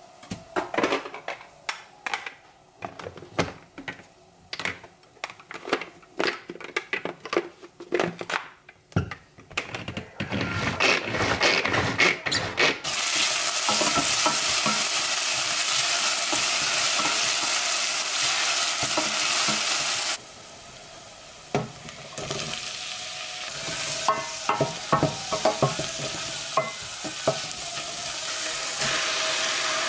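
A utensil clicks and taps against a pan, then food sizzles loudly and steadily in hot oil as it is stirred. The sizzle breaks off for a moment past the middle and comes back with more utensil clatter.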